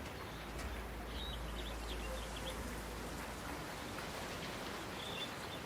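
Steady outdoor ambience: an even hiss with a low rumble that fades away, and a few faint high chirps from about a second in and again near the end.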